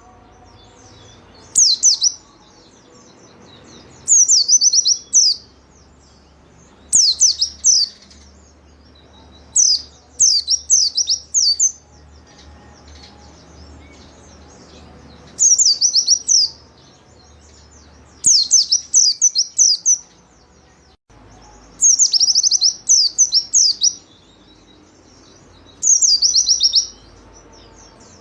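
White-eye (pleci) singing: short, high, rapid trilled phrases of quick notes, repeated every two to three seconds.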